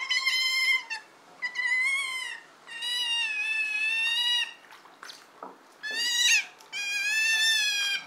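Otters calling: a run of five high-pitched, wavering squeals, each from about half a second to nearly two seconds long, with short pauses between them.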